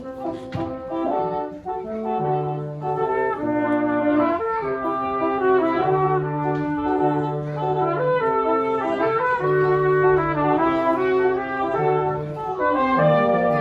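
Brass quartet playing a chordal passage, the parts moving together with the chords changing about once a second over a low voice that steps between notes.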